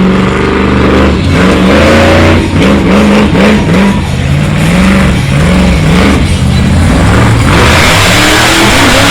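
Monster truck engine revving hard again and again, its pitch climbing and dropping with each blip of the throttle; from about seven and a half seconds in it holds a heavier, fuller sound.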